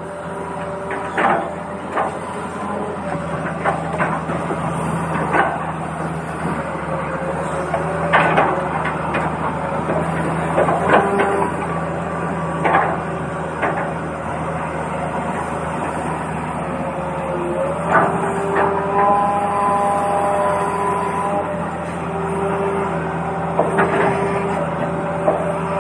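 Toy excavator and toy trucks being played with in sand: a steady motor whir with scattered plastic clicks and knocks every second or so, and short held tones now and then.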